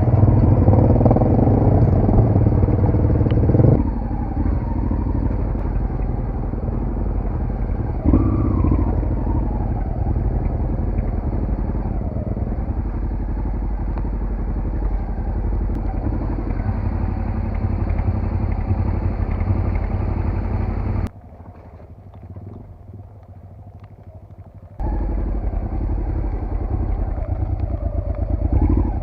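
Off-road motorcycle engine running under load on a trail. It is loudest for the first few seconds, picks up briefly about eight seconds in, and goes much quieter for a few seconds about two-thirds of the way through before coming back.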